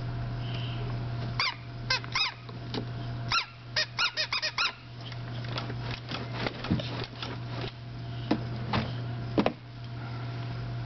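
Short high squeaks from a child's ride-on Diego toy truck as it is played with: a few in ones and twos, a quick run of about six around four seconds in, then more scattered squeaks until near the end.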